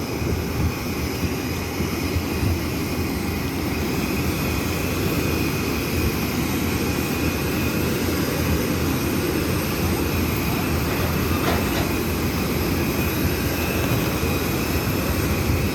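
Steady aircraft turbine noise on an airport apron: a continuous low rumble with a thin high whine held over it. A brief faint click comes about three-quarters of the way through.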